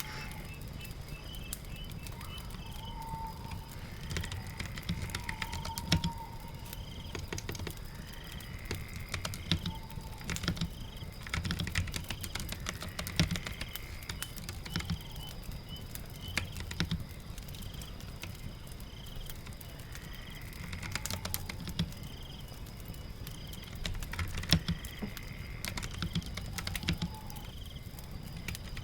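Computer keyboard typing in irregular bursts of clicks over a steady low rumble of rain and fire ambience, with faint repeated short high chirps.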